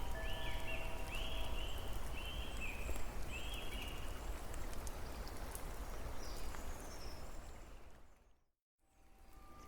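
Steady outdoor nature ambience with a constant hiss-like background and four short chirping bird calls in the first few seconds. The sound fades out to silence a little over eight seconds in, then fades back in.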